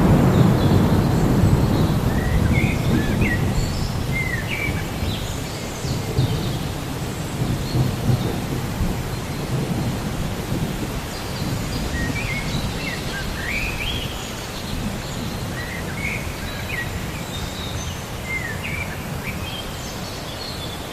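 Steady rain with a low rolling thunder rumble that swells at the start and slowly dies away over several seconds. Birds chirp briefly in several short runs.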